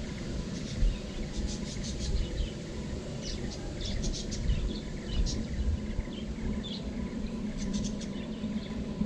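Birds chirping in short clusters of quick, high notes, over a steady low rumble.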